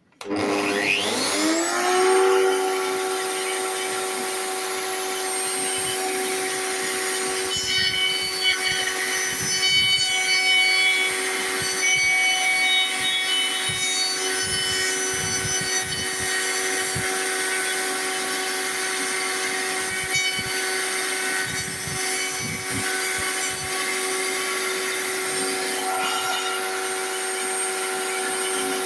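Table-mounted router switched on, its whine rising over about two seconds as it spins up, then running steadily at full speed. From about eight seconds in, and again around twenty seconds, its bearing-guided round-over bit cuts into the end of a wooden broomstick, adding irregular cutting noise over the whine.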